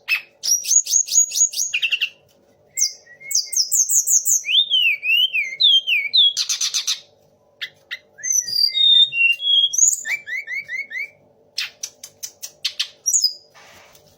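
Tledekan gunung songbird singing a varied, loud song of whistled phrases: falling runs of notes, quick trills of repeated notes, rising and falling sweeps and a few harsh rasping notes, broken by short pauses. Its song borrows from the magpie robin, white-rumped shama and orange-headed thrush.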